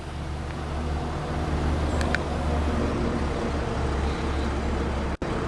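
Mercedes Sprinter's 3-litre six-cylinder diesel idling, heard as a steady low hum inside the front cab. There is a faint tick about two seconds in, and the sound cuts out abruptly near the end.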